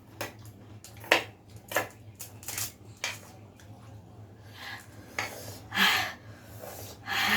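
Close-up eating sounds: crisp snack food such as pani puri shells and chatpate crunched and chewed in a series of irregular bites, with light clicks of utensils or a plate.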